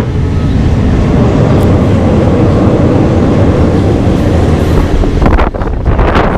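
Local passenger train running, heard from inside the carriage: a loud, steady rumble of wheels on the rails. A few louder rushing surges come near the end.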